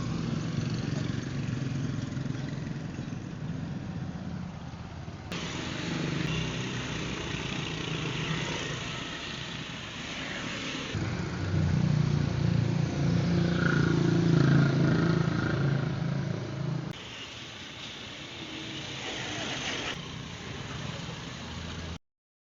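Vehicle engines, sport motorcycles or cars, running in a string of short clips joined by hard cuts every few seconds, loudest in the middle stretch; it cuts to silence near the end.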